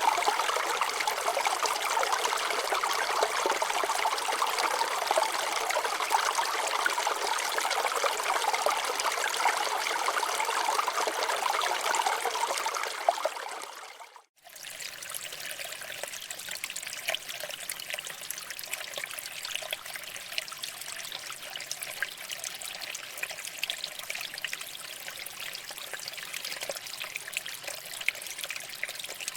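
Stream water flowing over rocks, a steady rushing trickle. A little under halfway through it fades out to silence for a moment, then comes back quieter and thinner.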